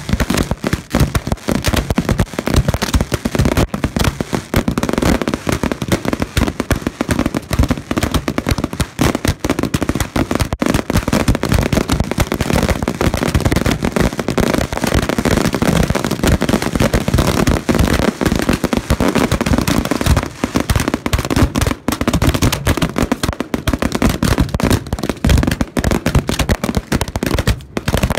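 Fireworks going off at close range in a dense, continuous barrage: rapid bangs and crackling with no let-up.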